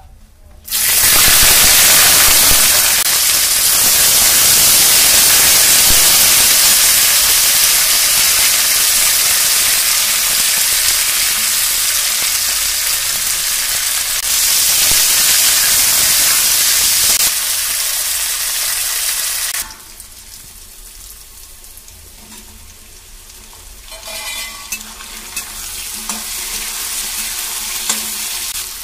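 Sem bean pods and seeds sizzling loudly in hot oil in a kadhai, starting suddenly about a second in as they hit the pan. The sizzle cuts down sharply past the middle to a quieter frying, and near the end a ladle stirs the vegetables in the pan.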